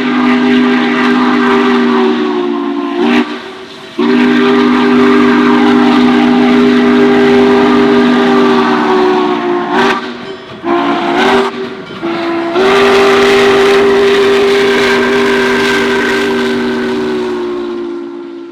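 Railroad locomotive's multi-chime air horn sounding the grade-crossing signal: two long blasts, a short one, then a final long blast. Several notes sound together as one chord.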